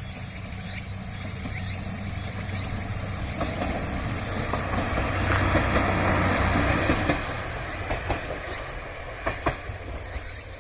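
Yodo Line diesel railcar passing the level crossing. Its engine drone builds to its loudest around the middle, then fades. In the last few seconds the wheels clack sharply over the rail joints.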